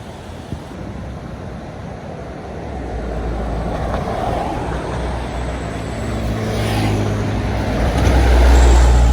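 A heavy road vehicle's engine approaching with road noise. A low engine drone grows louder from about three seconds in and is loudest near the end.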